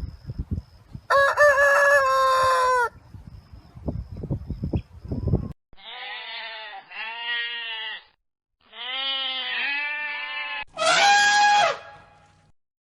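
Rooster crowing, four crows in a row, the last one loud and falling away at the end. A low rumbling noise, like wind on the microphone, runs under the first crow.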